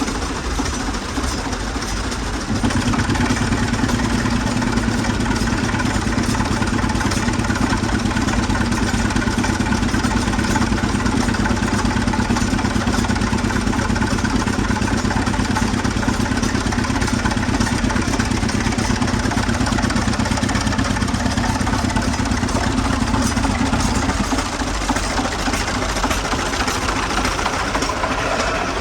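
An old air compressor's engine running steadily with a fast, even beat. It grows louder and heavier about two seconds in and eases back again near the end.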